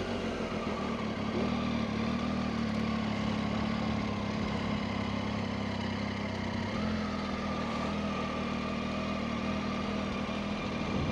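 Motorcycle engine running steadily, its pitch shifting about two-thirds of the way through.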